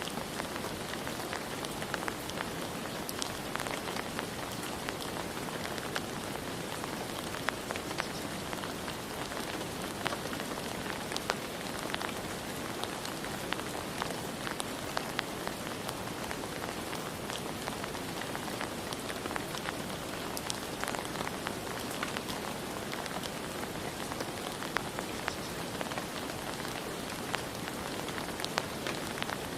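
Steady rain falling, a constant hiss with many separate drops pattering and ticking on surfaces.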